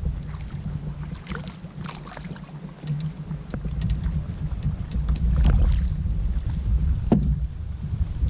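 Water moving and splashing around a kayak, with wind rumbling on the microphone and a single sharp knock near the end.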